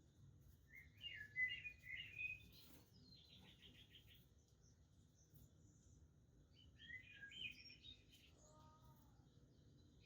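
Budgerigars chirping and warbling in two short, quiet bouts, one about a second in and one around seven seconds, with a quick run of repeated chattering notes between them, over a faint low background noise.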